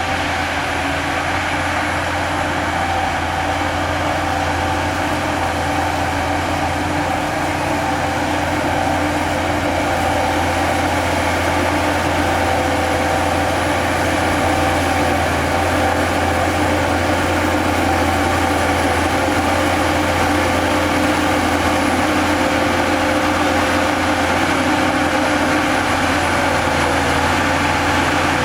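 Heavy earthmoving machine's diesel engine running steadily under load, with steady whining tones over the low engine note.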